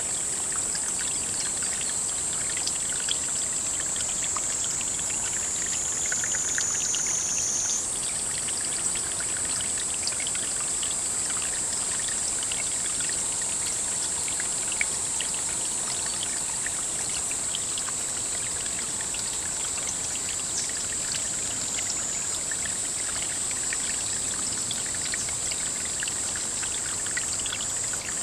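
Steady running water pouring and trickling into a pond, with a constant high-pitched whine over it that shifts pitch a few times.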